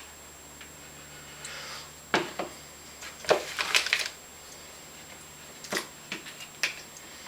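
Scattered light clicks and knocks of kitchen utensils and dishes being handled, with a short cluster of them a little before halfway.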